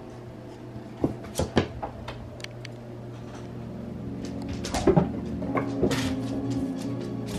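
Several sharp knocks and clatters, a few about a second in and a cluster around five to six seconds in, over a steady low hum.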